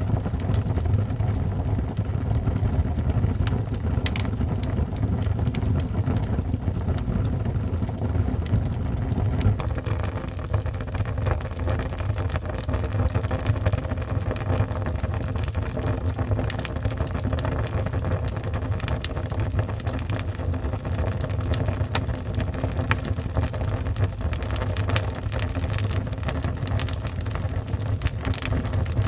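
Wood fire burning in a fireplace: a steady low rumble of flames with frequent small crackles and pops, which get busier about a third of the way in.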